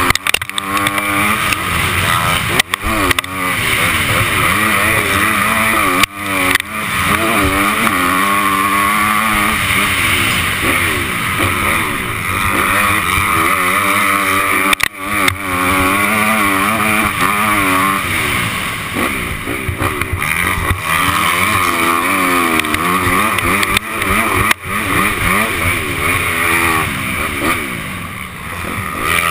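250 cc Honda motocross bike's engine recorded close up, revving hard up and down as it is ridden around the track, with wind noise on the microphone. A few times the revs drop briefly and there is a sharp knock.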